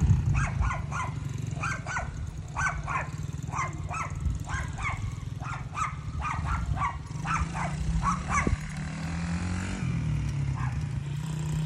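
A small single-cylinder four-stroke dirt bike engine, an SSR 70cc, running steadily throughout. Over it a dog barks in a fast run of repeated barks that stops about eight seconds in.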